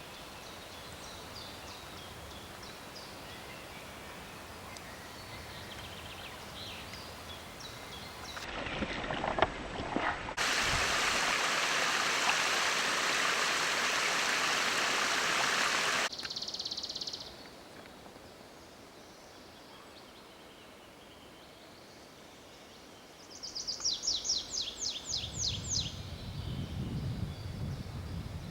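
Spring woodland ambience: faint scattered bird calls, then a loud steady rush of running water for about six seconds that cuts off suddenly. Near the end comes a rapid trill of repeated high bird notes.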